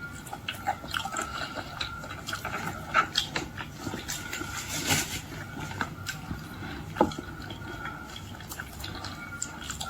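Close-up wet eating sounds of boiled shrimp being chewed and handled: many small clicks and smacks, with a few sharper ones about three, five and seven seconds in.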